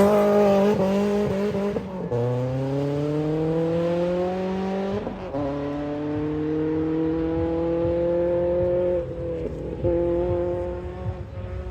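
Naturally aspirated 2.5-litre flat-four of a Subaru Impreza GC8 2.5RS rally car pulling hard under throttle, its pitch climbing through each gear with upshifts about two and five seconds in. Around nine seconds the revs dip briefly, then it pulls on, a little quieter near the end.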